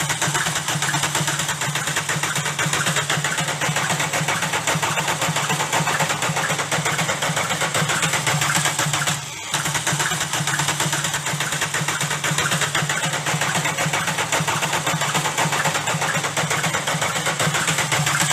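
Volkswagen Golf diesel engine running with a rapid, even knock, the sound of damaged connecting-rod bearing shells. The sound drops out briefly about nine seconds in, then carries on as before.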